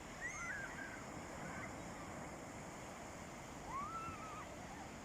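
Sea waves washing on a beach: a steady rushing noise. Two brief high calls rise and fall over it, one just after the start and one a little before the end.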